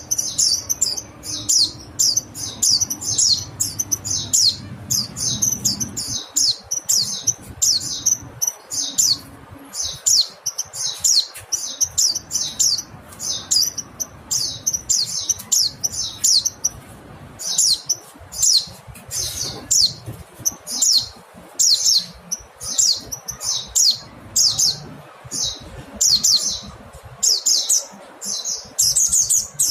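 Mountain white-eye (pleci gunung) giving its call: a fast stream of short, high, thin chirps, several a second, in runs with brief pauses.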